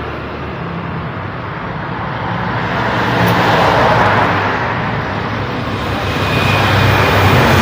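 Busy city road traffic: a steady wash of engine rumble and tyre noise from passing buses, trucks, cars and motorbikes, swelling as vehicles pass about halfway through and again near the end.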